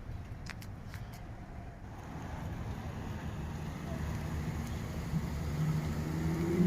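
A car engine rumbling and growing steadily louder, with a low droning exhaust note coming in near the end.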